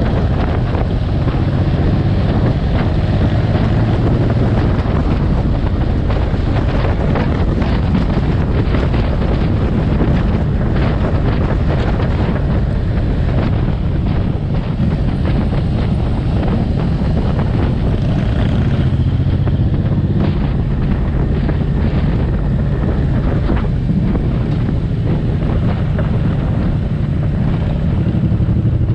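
Suzuki M109R's V-twin engine running steadily under way, with wind rushing over the microphone.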